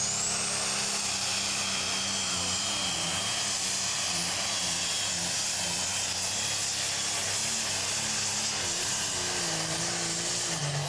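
Super stock pulling tractor's four-turbocharged engine running at full power under load, its turbochargers whistling. The whistle glides up at the start and then holds high over the engine's low note.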